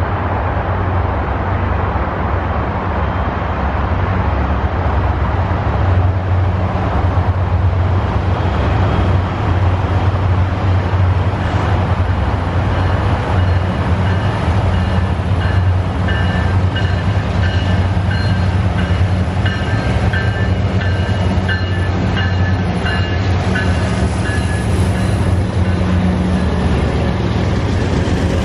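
Norfolk Southern freight train rolling through: a steady low diesel locomotive rumble over the running noise of the cars, with short high squealing tones coming and going from about halfway on.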